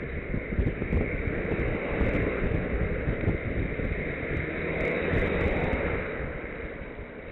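Wind rushing and buffeting over the microphone of a camera on a moving bicycle, a steady noisy rush that swells and eases.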